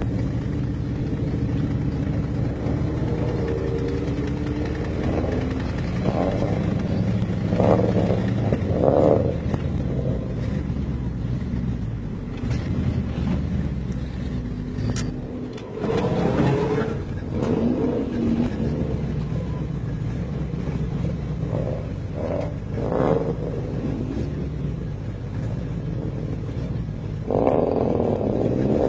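Big-block Chevy 454 V8 in a Toyota pickup running as it is driven, its engine note steady with pitch rising and falling as the throttle changes.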